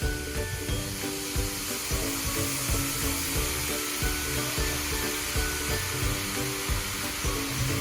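Background music with a steady beat, over a steady fizzing hiss from a baking-soda volcano reacting.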